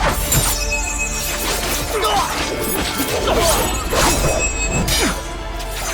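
Staged sword-fight sound effects, with blade clashes, hits and swishes coming again and again, over a dramatic music score.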